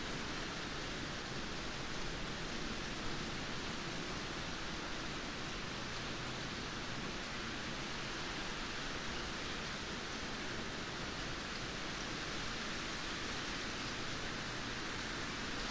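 Steady rain: a continuous, even hiss with no change in level.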